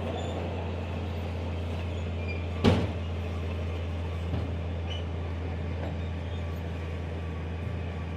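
Heavy diesel earthmoving machine running steadily with a low drone, with one loud sharp bang a little under three seconds in.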